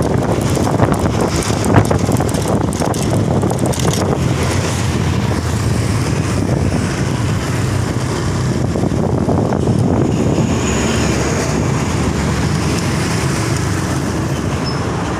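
Road traffic noise with wind buffeting the microphone: a dense, steady rush, with one sharp louder knock about two seconds in.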